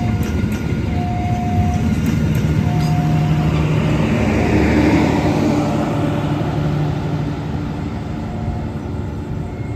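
A train passing close by, its rumble and rail noise swelling to a peak about halfway through and then fading. A short steady tone repeats about every second and a half throughout.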